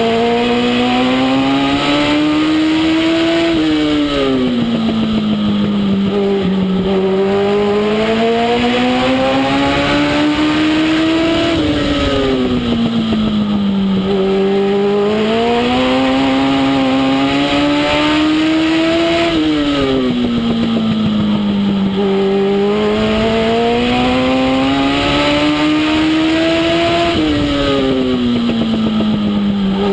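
Legend race car's Yamaha 1200 cc motorcycle engine running hard around a short oval. Its pitch climbs steadily, then drops back, about every eight seconds, four times over: accelerating down the straights and lifting for the turns, lap after lap.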